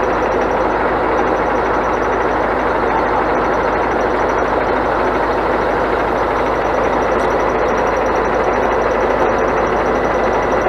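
Truck diesel engine running steadily while it drives the hydraulic loader crane.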